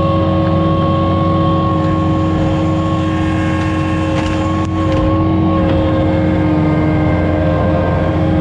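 Komatsu CK30 skid steer's diesel engine running steadily under throttle with a steady high whine over it, working the hydraulics of a homemade log splitter attachment.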